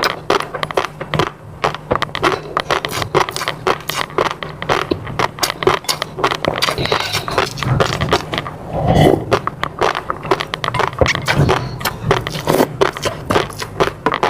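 Close-miked eating sounds: a person chewing, giving a dense, irregular run of wet clicks and crackles. A louder, lower mouth sound comes about nine seconds in.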